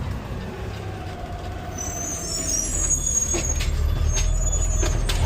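Garbage truck's diesel engine running while driving, heard from inside the cab, building slightly louder. A brief high squeal about two seconds in, and a few clicks and rattles.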